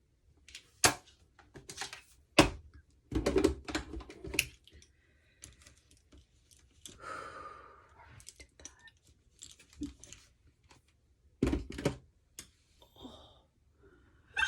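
Small objects being handled and set down on a hard surface: irregular sharp knocks and clicks, with a cluster about three seconds in and another near the end.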